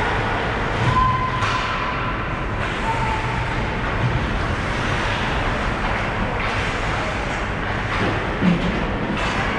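Ice hockey game sound in a rink: a steady din of skates on ice and arena crowd, with a few brief knocks of sticks or puck, the sharpest one near the end.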